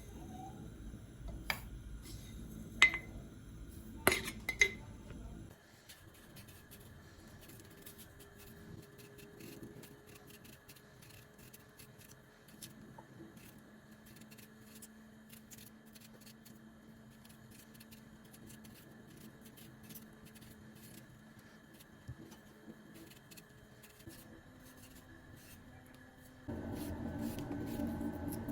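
Glass and dishes clinking sharply a few times in a small kitchen, then a long quiet stretch with only a faint steady hum.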